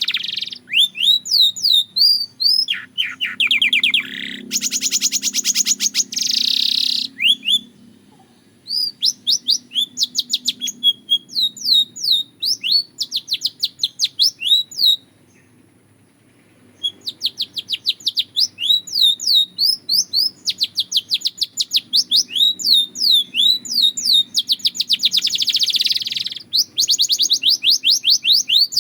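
Domestic canary singing: a long song made of runs of rapidly repeated notes, fast trills alternating with quick rising-and-falling whistles, broken by two short pauses.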